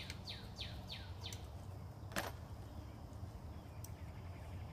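A bird singing a quick run of falling whistled notes, about three a second, which stops about a second in. A single sharp click follows a little after two seconds, over a steady low outdoor rumble.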